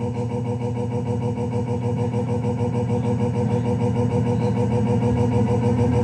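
A car engine running steadily at idle, growing slightly louder.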